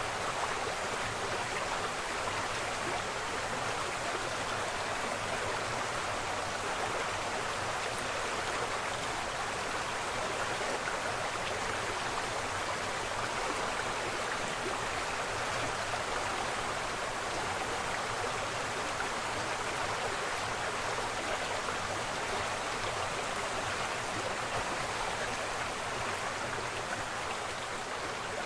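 Waterfall: a steady, even rush of falling water, unbroken and unchanging.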